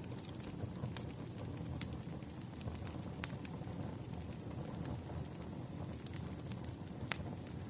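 Wood fire crackling: a steady low rumble of burning logs with irregular sharp pops, the loudest about three seconds in and again near the end.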